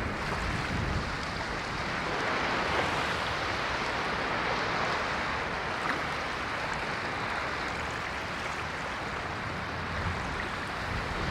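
Ocean waves washing onto a shore: a steady rushing wash that swells about two seconds in and slowly eases off.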